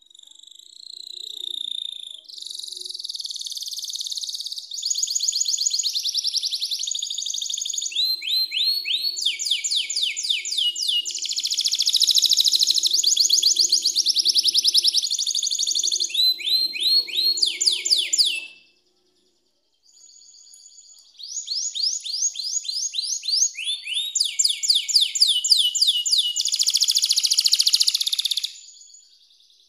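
Domestic canary singing: long, high-pitched phrases of rapid trills and rolls, each run of notes changing speed and pitch. The song breaks off for a moment about 19 seconds in, then starts again.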